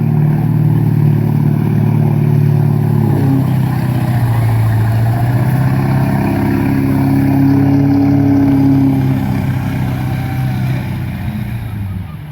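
Chevrolet Silverado's Duramax diesel engine running under load while towing. The pitch drops about three seconds in, climbs again, then fades away near the end.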